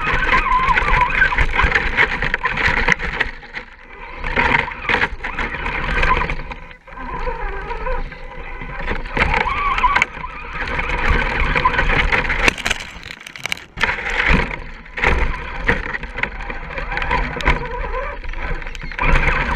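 Electric motor and gearbox of an Axial SCX10-series RC scale crawler whining, rising and falling with the throttle as it crawls, with scattered clicks and knocks.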